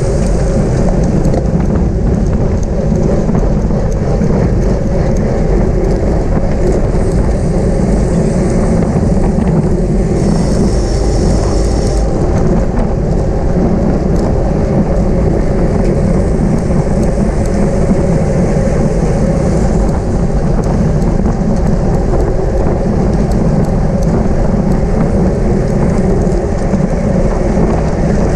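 Wind buffeting the microphone of a camera on a road bicycle moving at race speed: a loud, steady rumble with a hiss above it.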